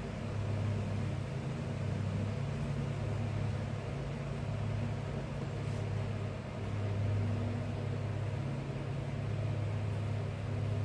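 A steady low machine hum that swells and fades slightly in level.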